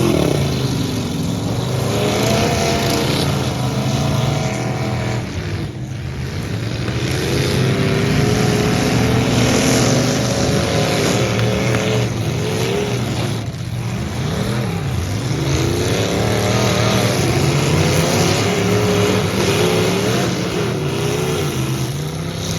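Engines of several full-size demolition derby trucks revving, their pitch repeatedly rising and falling over one another, with two brief lulls.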